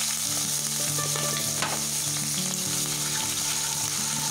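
Chopped ginger, garlic and green chillies sizzling steadily in hot oil in a nonstick wok, stirred with a wooden spatula.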